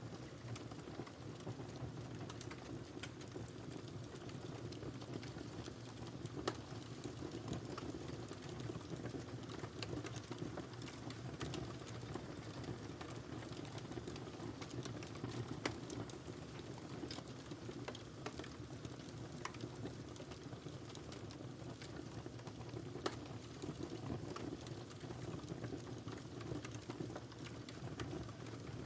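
Wood fire crackling in a fireplace: a steady low rumble of burning with frequent small irregular snaps, and a few louder pops.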